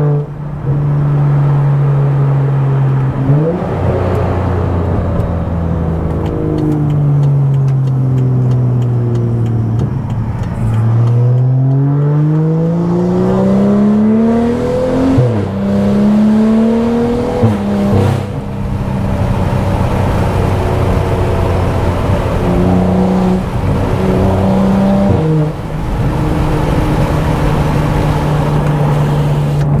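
Tuned BMW F10 535i's turbocharged inline-six running through a brutally loud exhaust while driving: engine pitch climbs under acceleration and drops back at several gear changes, with stretches where the revs fall off as it slows.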